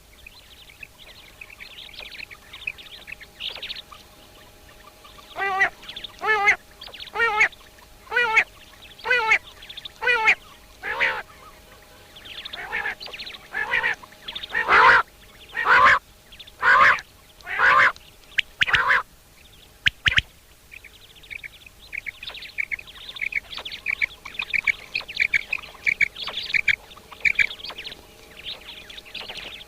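Common quail calling: over a dozen repeated calls, about one a second, loudest in the middle, followed by a run of short, high, rapid chirps near the end.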